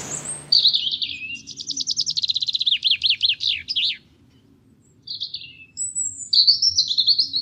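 A songbird singing: fast trills and a run of quickly repeated down-slurred notes, then a short pause and a few more brief phrases about five seconds in. A brief rush of noise fades out in the first half second.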